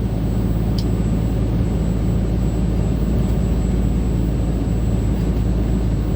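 Loaded truck's diesel engine pulling steadily up a steep mountain grade: a continuous low drone that holds an even pitch.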